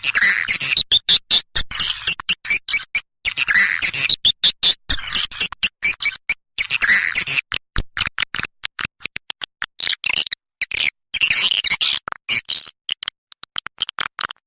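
Edible-nest swiftlets twittering: dense, high chirping calls chopped by frequent abrupt gaps, as in an edited playback recording. It is the kind of call track played to lure swiftlets into a nest house.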